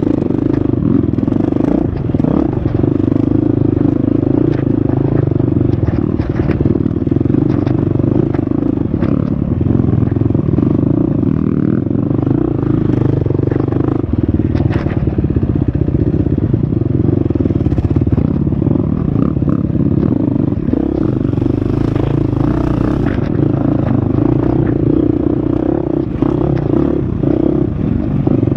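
Husqvarna FX350 dirt bike's four-stroke single-cylinder engine running steadily on an off-road trail, its pitch rising and falling a little with the throttle. Scattered clicks and knocks run through it.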